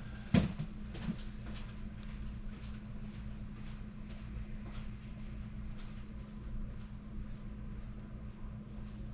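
A sharp knock about half a second in and a lighter one a second in, then faint, irregular light clicks and ticks over a steady low hum.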